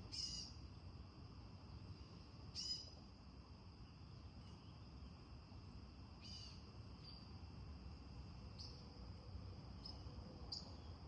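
Faint nature-sound backdrop: crickets chirring steadily in a high, even trill, with a few short bird chirps every few seconds.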